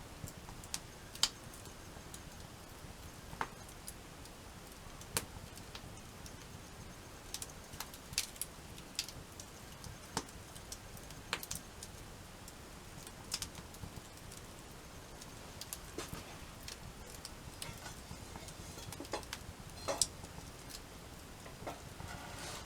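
Wood fire crackling: irregular sharp pops and snaps, one or two a second, over a faint steady hiss.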